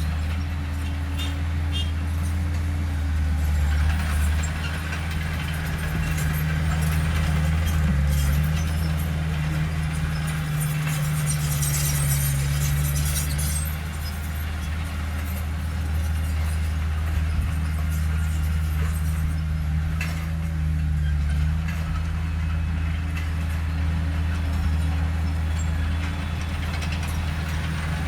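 Heavy diesel engine of earth-moving machinery running steadily under load, swelling and easing a little, with a patch of clattering noise about halfway through.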